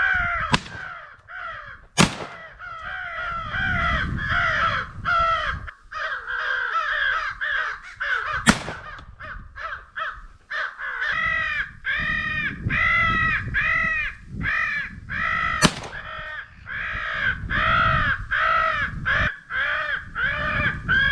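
Crows cawing continuously in a dense run of harsh, repeated caws, as from an electronic crow call and crows answering it. Three sharp, loud cracks of shotgun fire ring out, at about 2, 8 and 16 seconds in.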